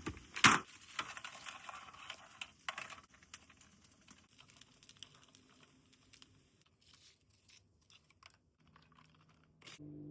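Aluminium foil being torn and crinkled over a pan, loudest in a sharp crackle about half a second in, then fading to faint scattered rustles. Music with steady held notes starts near the end.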